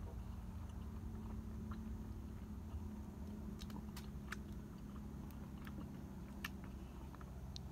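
A person chewing a mouthful of roasted pineapple with the mouth closed: scattered short wet clicks of the mouth, several in the second half, over a steady low rumble.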